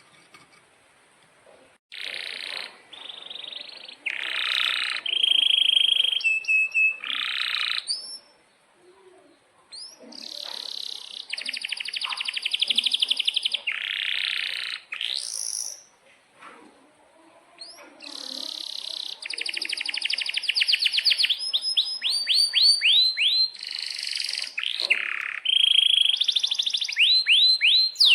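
Domestic canary singing in long bouts of rapid trills and rolls, high-pitched, starting about two seconds in, with two short pauses between phrases.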